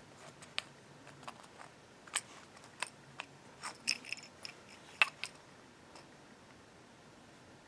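Small scattered clicks and taps of metal parts being handled, a dozen or so irregular ticks with one sharper click about five seconds in.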